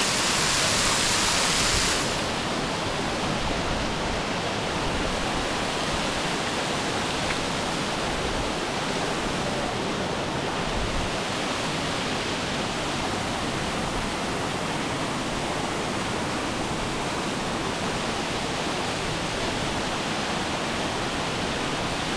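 Close waterfall: falling water rushing in a steady, even hiss. A harsher, brighter hiss in the first two seconds drops off abruptly to a slightly quieter steady rush.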